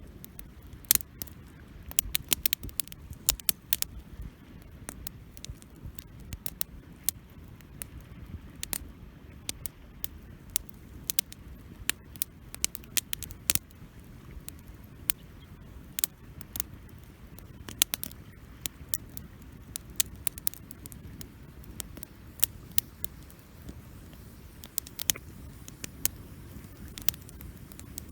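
Wood campfire crackling: irregular sharp pops and snaps, several a second at times, over a low steady rush of the burning fire.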